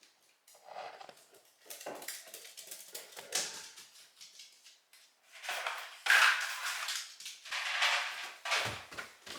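Dry dog food kibble clicking and clattering: a run of short, irregular clicks, sparse at first and busiest from about five and a half seconds in.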